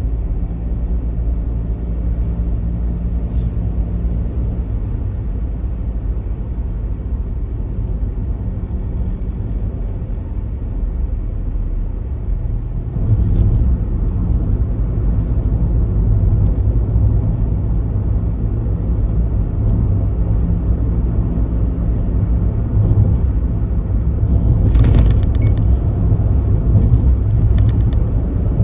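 Daihatsu Taft's small three-cylinder turbo engine idling steadily with a low rumble. It gets a little louder about halfway through, and there are a few brief light rattles.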